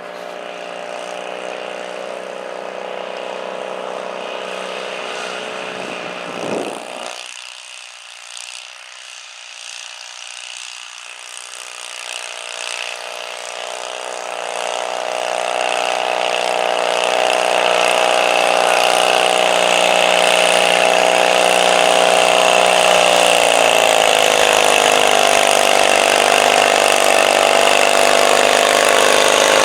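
Stock garden tractor engine running, dropping away sharply about six seconds in, then climbing steadily over several seconds to a loud, high, steady rev that holds to the end, as at full throttle under a pull.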